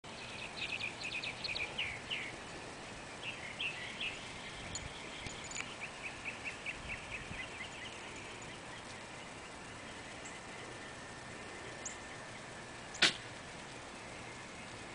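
Bird chirping: a run of quick, high repeated chirps for the first half, then one sharp click about thirteen seconds in.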